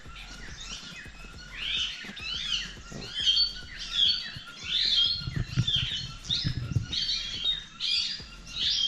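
A flock of small parrots, lovebirds, chattering in many short, shrill chirps and squawks that overlap without pause. A low rumble comes in briefly about five seconds in.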